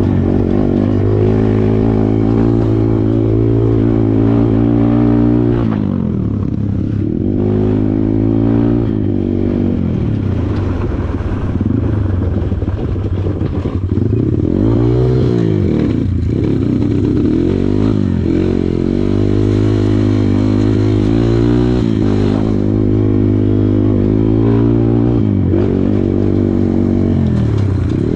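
Kawasaki KLX140 dirt bike's single-cylinder four-stroke engine under way, its note rising and falling again and again as the throttle is opened and rolled off, with short drops around the shifts.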